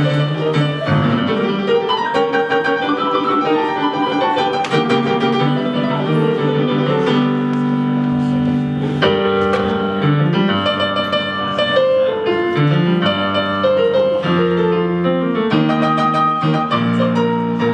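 Instrumental music led by piano, a steady run of held notes and chords with no singing.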